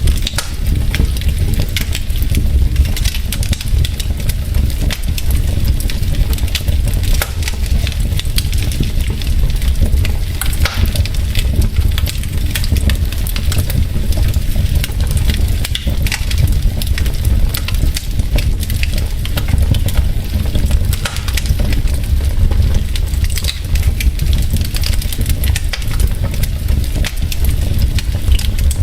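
Wood logs burning in a fireplace: frequent sharp crackles and pops over a steady low rumble.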